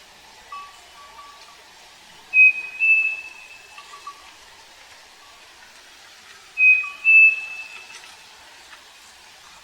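Striped cuckoo (saci) singing its clear two-note whistle, the second note slightly higher, given twice about four seconds apart.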